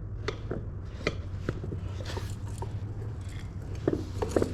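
Scattered light metal clicks and taps of screwdrivers against a wheel rim while a tire bead is levered onto it, over a steady low hum.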